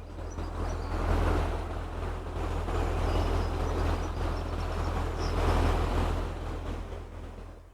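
A narrowboat's diesel engine running steadily as the boat turns in the canal, with wind rushing over the microphone in swells. It fades out near the end.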